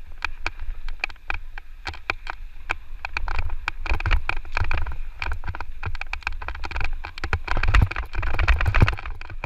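Electric mountain bike clattering over a rough dirt trail: dense irregular rattles and knocks from the frame and chain, with a heavy low rumble of wind on the microphone, growing louder about halfway through and again near the end.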